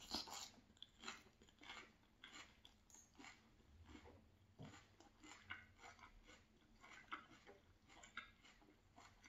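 Faint chewing of a mouthful of raw salad (lettuce, purple cabbage, celery and carrot), in short, irregular crisp crunches.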